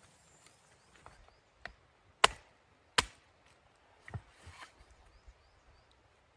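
Wood being chopped: a few light knocks, then two sharp, loud strikes about three-quarters of a second apart, followed by a few more lighter knocks.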